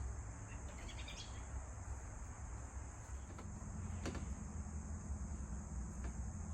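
Quiet handling of a shock-corded tent pole being taken apart: a few light clicks about a second in and a single sharp tick about four seconds in, over a steady high hiss.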